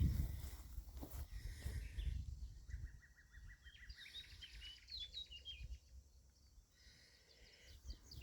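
A small songbird singing: a fast trill of short notes that climbs into a higher twittering phrase, lasting about four seconds. Low rustling noise comes before it.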